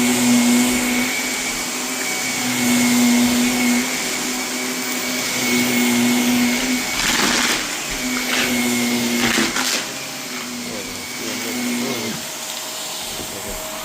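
Vacuum cleaner running over carpet, its hum swelling and easing every couple of seconds, with crunching and crackling as construction debris is sucked up, most noticeable about seven to ten seconds in.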